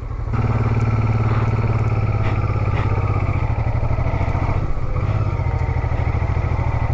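Honda Transalp 650's V-twin engine running steadily as the motorcycle is ridden along a gravel and dirt track. The engine comes up just after the start and then holds an even note.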